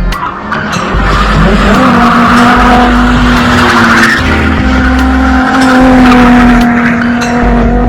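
Holden VY Commodore Calais's 3.8-litre Ecotec V6 held at high, steady revs through a drift, with the rear tyres squealing.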